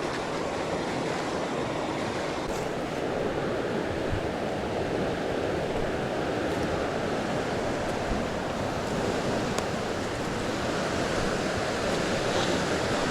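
Steady, even rush of water noise, as from a flowing rainforest creek and rain, with a few faint clicks.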